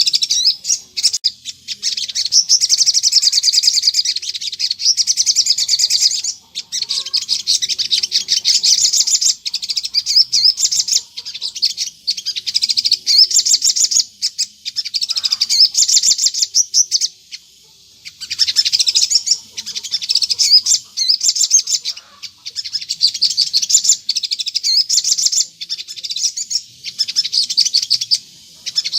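A sogon bird singing non-stop: long, rapid, high-pitched chattering phrases, each a few seconds long, separated by short pauses. This is a lure song meant to make wild sogon answer.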